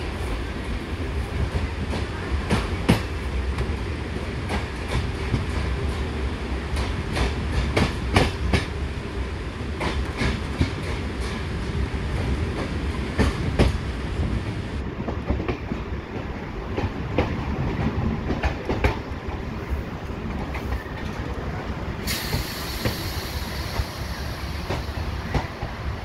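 Passenger train rolling along, heard from a coach window: a steady rumble with the wheels clacking over rail joints. A high hiss comes in near the end.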